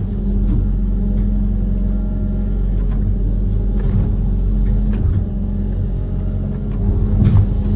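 Amphibious excavator's diesel engine running steadily under load, with a few brief knocks, the loudest near the end.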